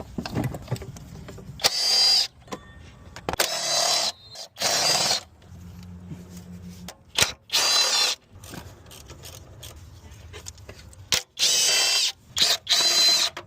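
Handheld power tool run in six short bursts, each under a second with a high whine, with clicks and low mechanical noise between them.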